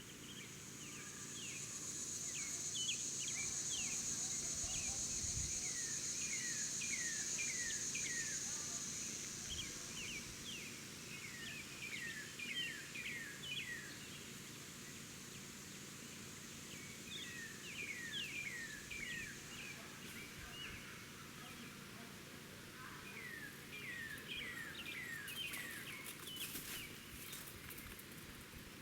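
Small birds chirping in repeated runs of short, falling notes, over a high steady buzz that fades out about ten seconds in.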